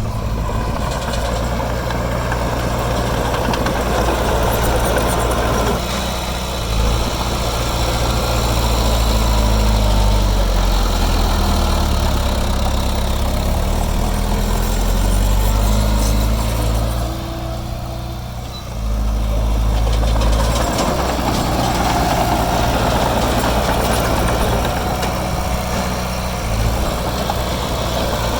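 Heavy diesel engine of earthmoving machinery running under changing load, its pitch rising and falling through the middle, with a brief drop in level about two-thirds of the way through.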